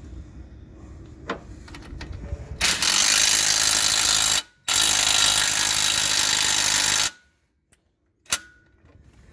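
Impact wrench hammering in two runs of about two seconds each with a brief break between, driving in a bolt on the rear suspension. A single sharp click near the end.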